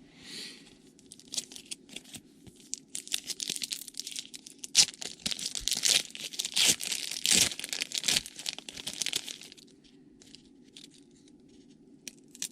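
Trading card pack wrapper being torn open and crinkled by hand. A dense crackling with sharp little clicks runs for several seconds and stops about nine and a half seconds in.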